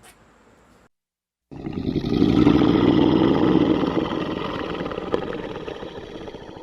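A large animal's long, rough, pulsing roar that starts suddenly about a second and a half in, is loudest soon after and slowly fades.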